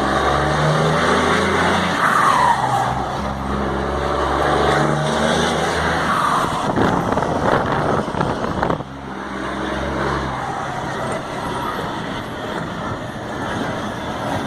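Scania P94 truck's diesel engine being revved, its turbocharger fitted with a comb insert ('pente') so that it whistles: twice a whistle falls in pitch as the revs come down. About nine seconds in, the engine drops back to a quieter idle.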